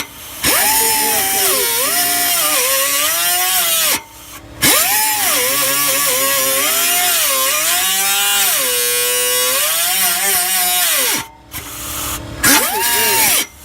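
Power tool cutting through a steel exhaust pipe, its motor whine dipping and recovering in pitch as the blade bites, with a hiss of metal cutting above it. It runs in long stretches, stopping briefly about four seconds in and again near the end before a short final burst.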